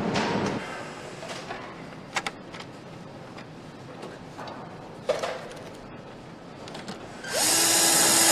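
Assembly-line power tool running in one loud burst of about a second near the end, with a few sharp clicks and clanks of parts being handled before it.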